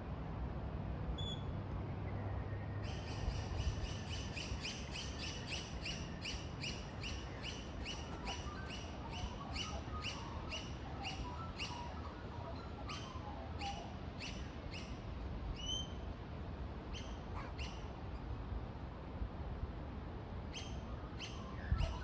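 A wild bird calling a short note over and over, about three times a second for some ten seconds, then slowing to occasional calls. Softer twittering sounds underneath partway through.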